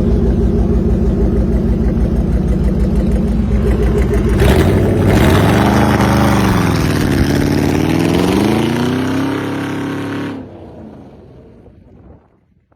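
Citroën GT's V8 engine running steadily at low revs. About four seconds in it revs up, drops back and climbs again, then the sound fades away near the end.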